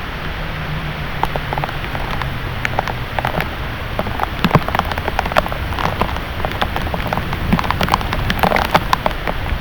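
Heavy thunderstorm rain falling, a steady wash with many sharp drop ticks striking close by, growing denser in the second half.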